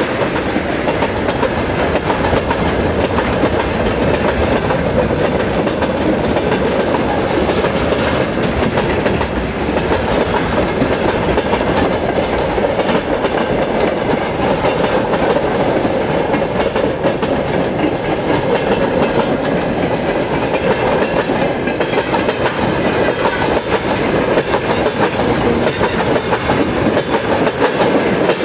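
Freight wagons rolling past at close range: a steady, loud rumble and clatter of steel wheels on the rails that holds even throughout.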